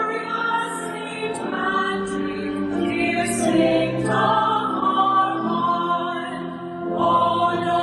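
Choir singing a hymn in sustained chords that change every second or two.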